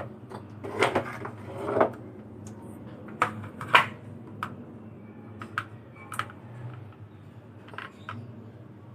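Irregular clicks and knocks of hard objects being handled: a quick cluster of taps and a short rattle in the first two seconds, then single sharp taps every second or so.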